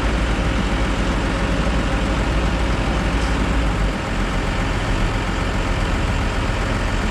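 Mazzotti high-clearance self-propelled sprayer's diesel engine running steadily. Its low note drops slightly about four seconds in.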